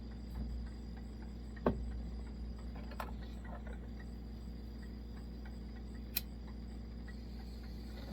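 Three sharp metallic clicks, spaced a second or more apart, as the vintage Coleman stove is handled and adjusted before lighting, over a steady low hum.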